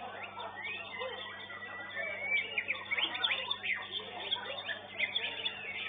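Many caged songbirds singing at once in a bird-song contest, a dense overlapping mix of quick whistles and chirps, with a faint low steady hum beneath.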